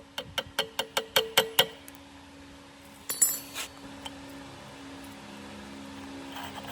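Rapid metallic tapping, about five sharp ringing strikes a second for under two seconds, then a brief clink and scrape a few seconds in, with a steady low hum underneath in the second half.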